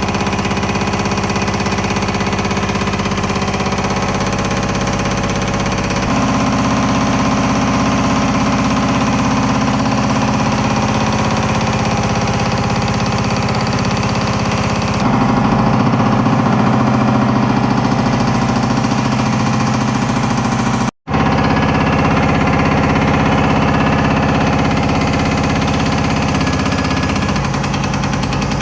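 Power hammer running continuously, its ram rapidly hammering sheet steel as a trunk-gutter panel is worked. The sound shifts abruptly a few times and drops out for an instant about two-thirds of the way through.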